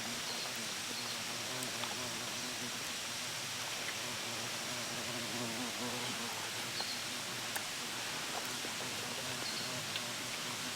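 Outdoor ambience: a steady hiss with faint scattered clicks and a few short, high chirps.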